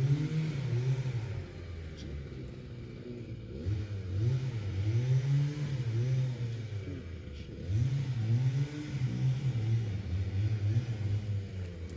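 A car engine revving up and easing back, three times at roughly even spacing.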